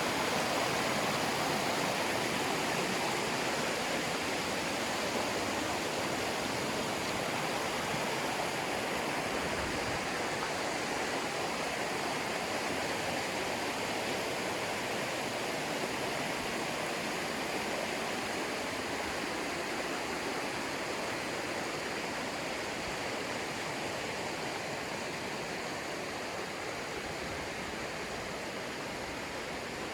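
A fast river rushing over rocks, a steady full wash of water that slowly grows a little quieter.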